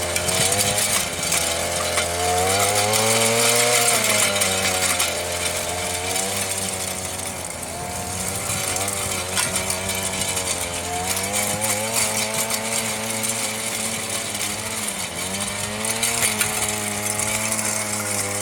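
Earthquake MC33 mini tiller's small 33cc two-stroke engine running hard as its tines churn through rocky soil. Its pitch sags and picks up again several times as the tines bite in and free themselves.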